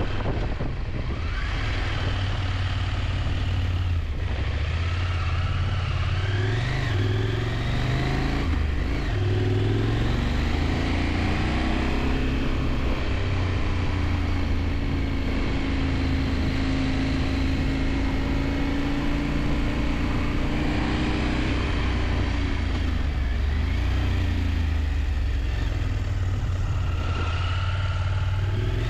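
KTM 890 Adventure's parallel-twin engine running on the move, its pitch rising and easing several times with the throttle, over a steady rush of wind.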